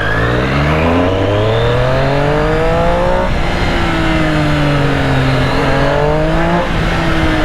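Triumph Street Triple's three-cylinder engine accelerating under way, its pitch climbing for about three seconds, then dropping at a gear change. It holds steady, climbs again and drops once more near the end.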